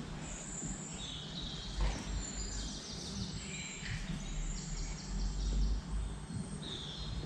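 Birds chirping and trilling in high, short calls, over a steady low rumble of background noise.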